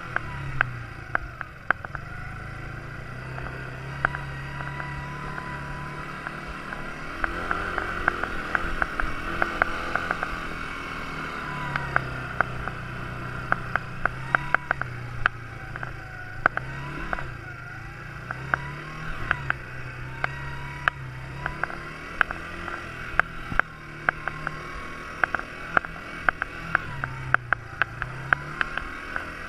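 Quad bike engine running, its pitch rising and falling again and again as the throttle is opened and eased, with many short sharp clicks and knocks over it.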